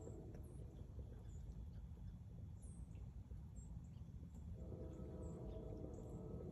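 Faint outdoor ambience: scattered brief, high chirps of small birds over a steady low rumble. A faint steady hum with several overtones comes in about two-thirds of the way through.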